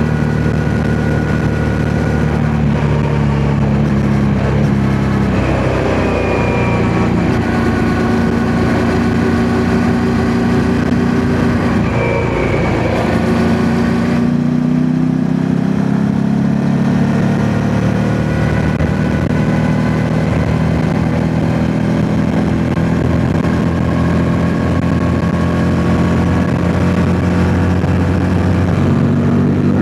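Yamaha MT-07's 689 cc parallel-twin engine running under way, the revs dipping and climbing several times, with wind noise on the microphone.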